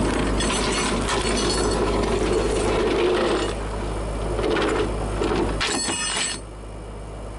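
Rattling metallic clicks and squeaks, like a ratchet mechanism working, over a steady low engine hum. The hum drops away about six seconds in.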